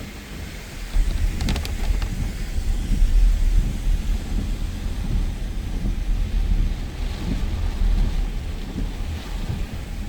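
Heavy rain in a strong wind storm, with gusts buffeting the microphone in a loud, uneven low rumble. A few sharp clicks come about a second and a half in.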